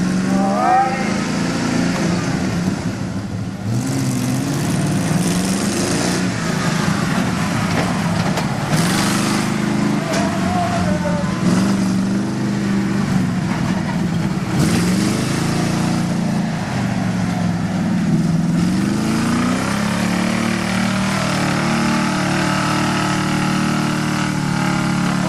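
Mud bog race truck engines revving hard through the pit, the pitch rising and falling again and again, with a few brief hissing bursts. Near the end the engine note levels off to a steadier, lower sound.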